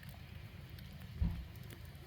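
Wood fire burning under a cauldron, faint crackles over a steady low rumble, with a single dull thump a little over a second in.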